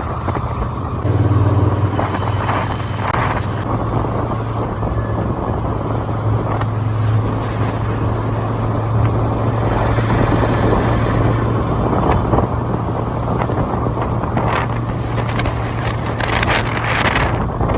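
Motorcycle engine running steadily at cruising speed, with wind rushing over the microphone and a brief rush of louder noise near the end.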